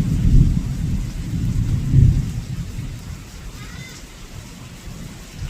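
Wind buffeting the microphone: an uneven low rumble, loudest in the first couple of seconds, then dying down. A faint, brief high chirp about four seconds in.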